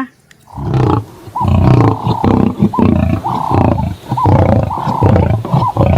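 Lion roaring: a run of deep roars in several pulses, one after another.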